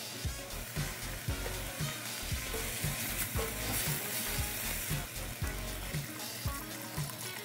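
Beef and vegetables sizzling in a hot enameled pot as kimchi is stirred in with tongs, then water poured in near the end, over background music with a steady beat.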